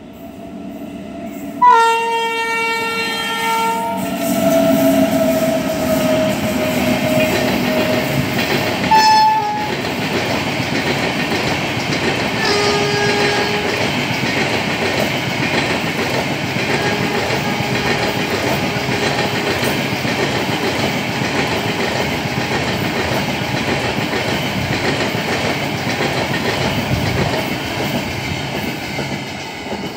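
A WAG-9 electric locomotive sounds its horn, a chord of several notes, about two seconds in, the horn's pitch then sliding down a little as it runs past, with short horn notes after. Then comes the steady rumble and wheel clatter of its LHB coaches passing close at speed, fading near the end.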